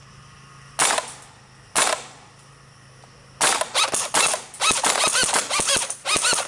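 Airsoft guns firing: two single shots about a second apart, then about three seconds of rapid fire.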